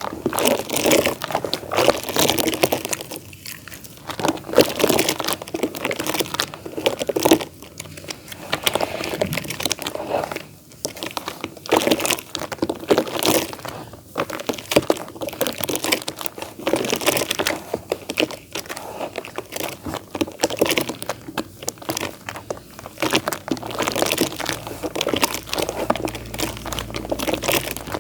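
Lumps of damp pure clay dirt being crumbled, a dense crunching crackle that comes in bursts of a second or two with short pauses between.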